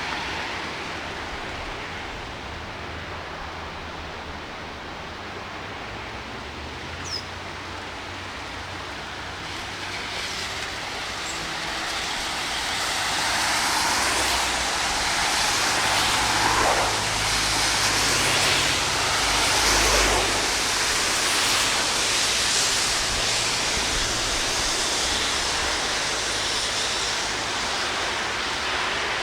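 Heavy rain and water making a steady hiss. It grows louder and fuller about a third of the way in, with low rumbling underneath.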